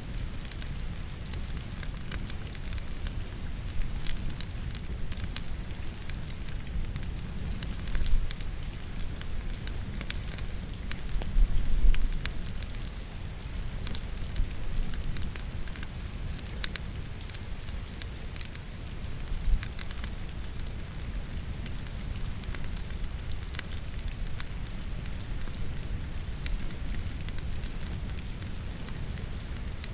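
Wood fire burning in a fireplace, crackling and popping all through, over a steady bed of falling rain, with a few louder low thumps.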